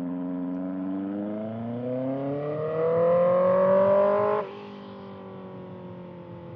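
2025 Kawasaki ZX-6R inline-four through a Voodoo slip-on exhaust, accelerating hard with the engine note climbing steadily. About four and a half seconds in, the throttle snaps shut and the note drops off, falling slowly as the bike decelerates.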